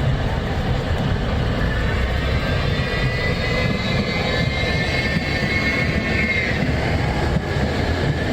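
A passing vehicle's engine or motor: a high, steady whine that swells in and then dies away after a few seconds, over a continuous low rumble of traffic.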